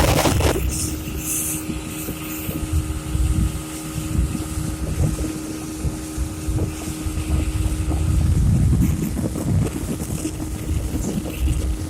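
A 200 hp outboard motor running steadily at speed, one even engine tone, with wind buffeting the microphone.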